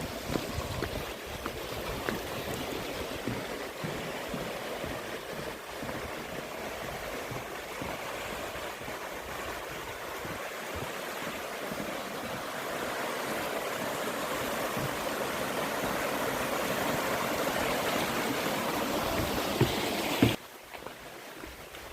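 Mountain stream water rushing and splashing over rocks, a steady rush that grows slowly louder and then cuts off suddenly near the end, leaving a quieter rush.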